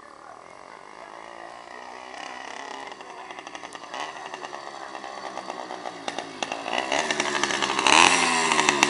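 Two-stroke 80cc kit engine of a motorized bicycle running with the cap off its exhaust, so it is loud and unmuffled. It grows steadily louder as the bike comes closer, and is loudest with its pitch bending as it passes close near the end.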